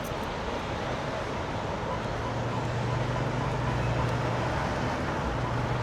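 Diesel truck engine idling, a steady low hum over the background noise of a busy truck stop fuel island.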